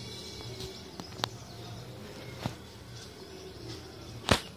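Faint bird chirping over a steady low background, with a few sharp clicks; the loudest click comes near the end.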